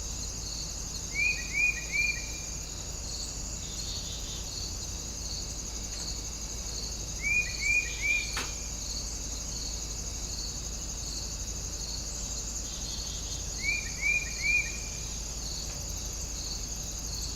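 Steady chorus of crickets and other insects, a high, evenly pulsing trill. Three times, about six seconds apart, a bird calls a quick phrase of three short downward chirps, louder than the chorus.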